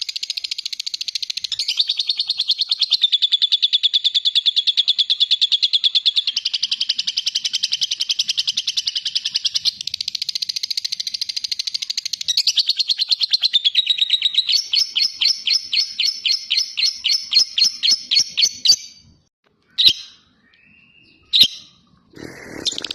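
Lovebird in 'ngekek' song: a long, unbroken, very rapid high chattering trill that shifts pace a few times. For its last few seconds it slows to separate notes, about six a second, then stops. After two short chirps and a brief pause, the trill starts again at the very end.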